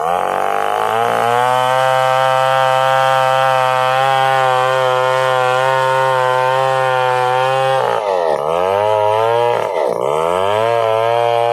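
Stihl 070 two-stroke chainsaw engine revving up and then running steadily at high speed. In the last third the engine speed twice drops sharply and climbs back.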